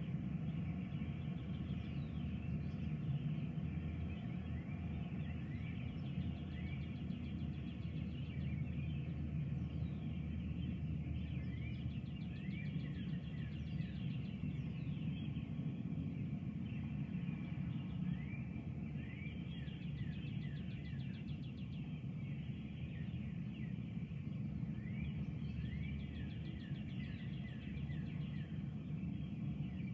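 Songbirds singing, phrases of short slurred whistle notes and quick trills coming every few seconds, over a steady low rumble.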